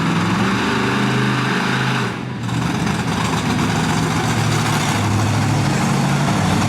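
Monster truck engine running loud and fairly steady, with a brief dip a little over two seconds in before it picks back up.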